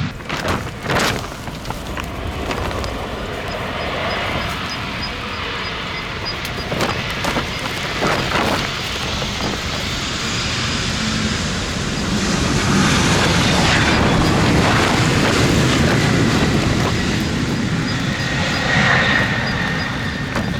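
Strong gusty wind buffeting the microphone over the rumble of jet airliner engines.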